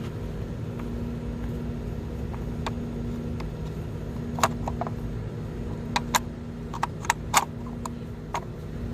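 A steady low mechanical hum underneath a run of sharp, irregular clicks and clinks in the second half, from parts and tools being handled on the engine.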